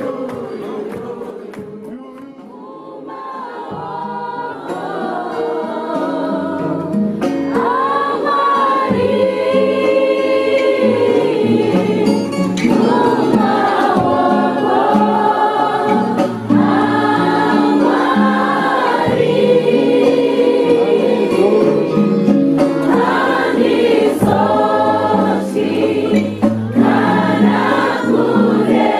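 A group of voices singing a gospel hymn together in parts. The singing thins about two seconds in, then swells and carries on full.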